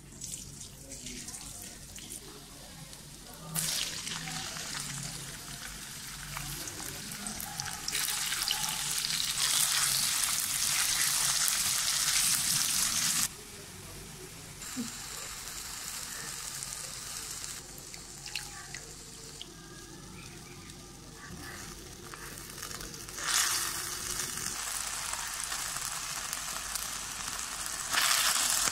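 Oil sizzling in a wok as minced garlic and then strips of chicken fry. The hiss jumps louder and quieter in steps and is loudest from about eight to thirteen seconds in.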